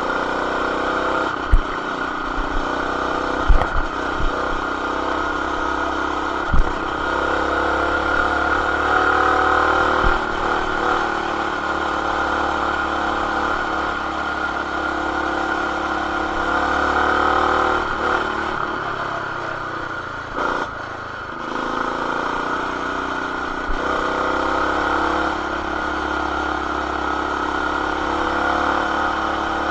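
Stage-1-modified Coleman BT200X mini bike engine running steadily at high revs while riding, with a few sharp knocks in the first third. About two-thirds through, the revs drop briefly, then climb back. The sound is heard through a camera in a plastic protective case.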